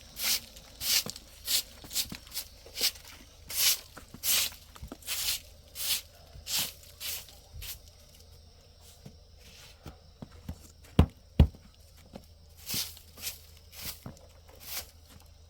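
Footsteps crunching through snow, about two steps a second, stopping about halfway. After the pause come two heavy thumps in quick succession, then a few more crunching steps.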